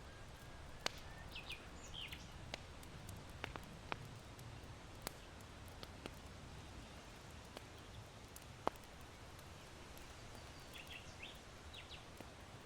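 Charcoal in an irori hearth crackling with sparse, sharp pops, the loudest about a second in and near nine seconds. Small birds chirp in two short bursts, one early and one near the end, over a steady low wind.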